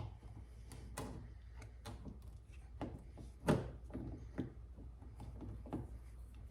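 Irregular clicks and knocks of a car's outer door handle assembly being pushed and fed into place inside the door, with the loudest knock about three and a half seconds in.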